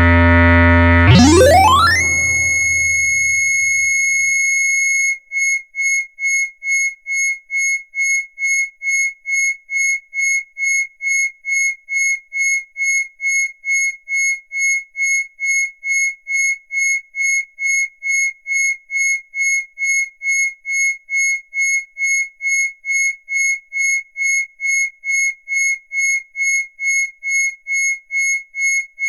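Arturia Buchla Easel V software synthesizer: a buzzy low drone sweeps sharply up in pitch over about a second to a high, thin steady tone. About five seconds in, that tone starts pulsing on and off, about two pulses a second.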